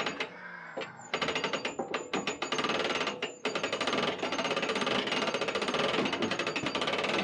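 A rapid, even mechanical clatter of many knocks a second, cutting out for about a second near the start and dipping briefly about three seconds in.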